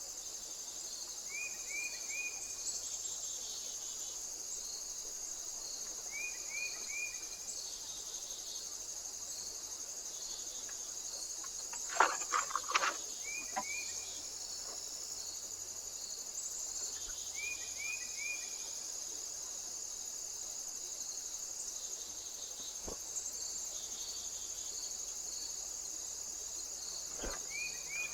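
Steady high-pitched chorus of crickets or other singing insects. A short call of three quick notes repeats every few seconds, and a brief cluster of sharp knocks or taps comes about halfway through.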